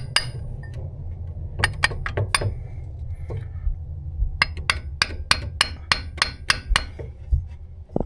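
Small two-pound sledgehammer striking a half-inch socket extension, metal on metal, to drive a transmission axle seal into its bore. The taps come in quick runs of about four a second, with short pauses between runs.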